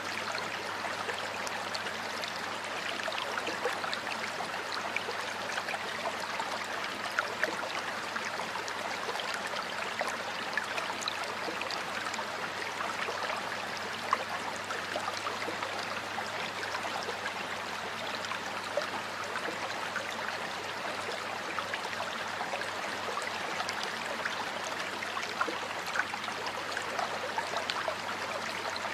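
Water flowing in a stream, a steady babbling rush with brief small splashes now and then.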